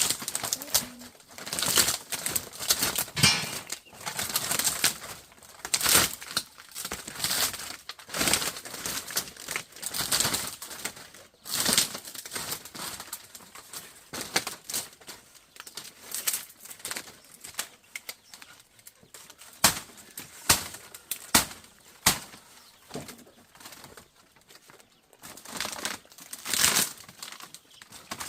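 Rotten chicken coop being pulled apart by hand: irregular bursts of rustling, cracking and knocking, roughly one every second or two.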